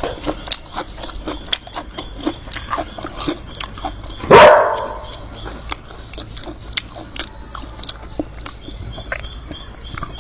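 A dog barking once, loudly, about four seconds in, over a run of small clicks and taps.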